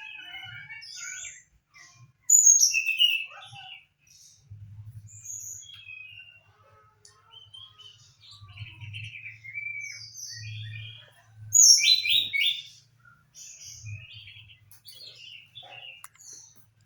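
Juvenile brown-chested jungle flycatcher singing: bursts of short, varied high chirps and warbled notes with brief gaps, loudest about two seconds in and again near twelve seconds. A faint low hum comes and goes underneath.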